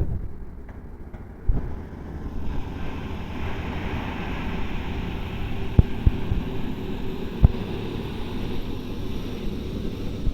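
Heavy diesel machinery running with a steady low rumble, with a few sharp knocks and clanks; wind noise on the microphone.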